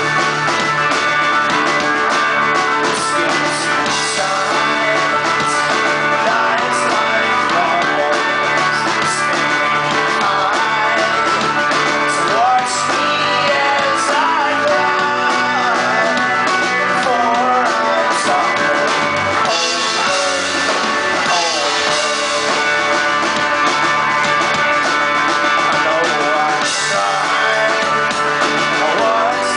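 Live folk-rock band playing an instrumental stretch of a song, guitars to the fore, steady and loud with no break.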